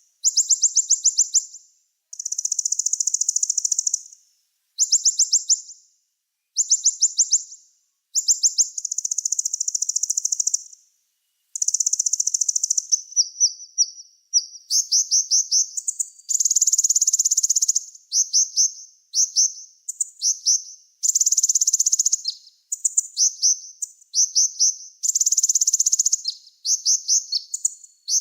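Small songbird singing high-pitched, rapid trills and buzzy chattering phrases, each lasting a second or two with short pauses between, becoming denser and more varied about halfway through.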